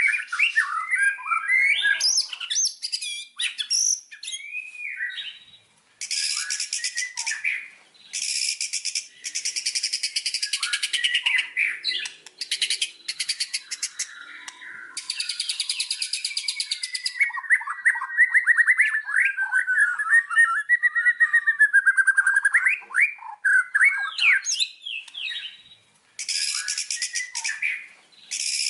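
White-rumped shama (murai batu) singing vigorously: varied whistled phrases that glide up and down, broken by several dense, very fast rattling trills of a second or two each.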